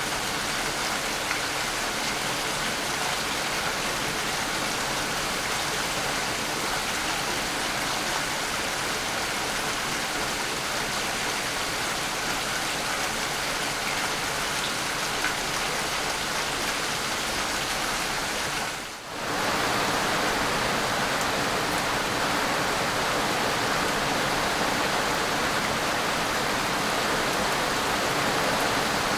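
Steady rain falling, a continuous hiss of raindrops; it drops out briefly about two-thirds of the way through and comes back slightly louder.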